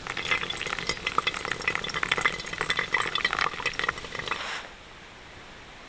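Dense crackling and popping that cuts off suddenly about four and a half seconds in, leaving a steady hiss.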